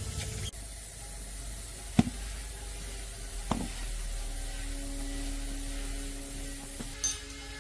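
A few sharp clicks or knocks, the loudest about two seconds in, over a steady low hum, with a steady tone setting in about halfway through.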